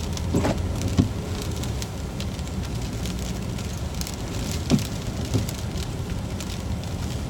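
Car driving slowly: a steady low rumble of engine and tyres with a crackling hiss over it, and a few dull thumps, two in the first second and two more a little past the middle.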